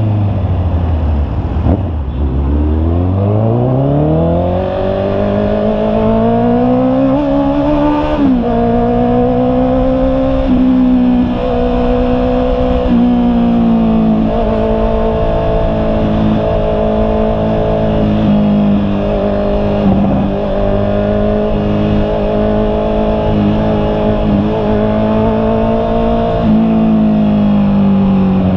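Honda CB650R's inline-four engine: revs fall to a low note in the first couple of seconds, then climb steadily, drop abruptly about eight seconds in as it shifts up a gear, and hold at a fairly steady cruising pitch with small rises and falls.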